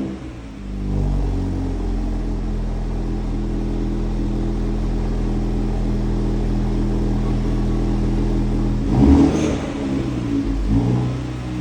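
Honda Civic Type R's four-cylinder engine through a Milltek cat-back exhaust, idling steadily, then blipped once in a quick rev about nine seconds in and a smaller one near the end.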